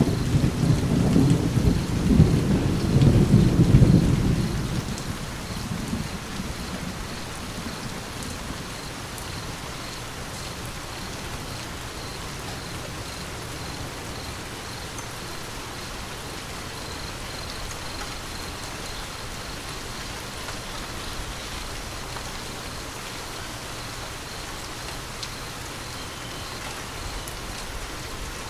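A rolling thunder rumble over steady rain, loudest in the first few seconds and fading out by about six seconds in, leaving rain falling steadily.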